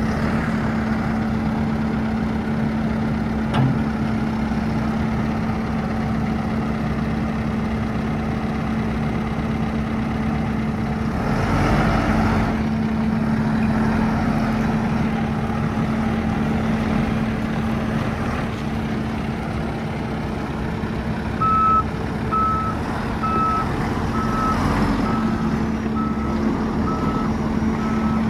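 Deere 410L loader backhoe's 4.5 L turbo diesel running steadily, swelling briefly about halfway through. Its reversing alarm starts beeping about two-thirds of the way in, a high beep a little faster than once a second: the machine is in reverse.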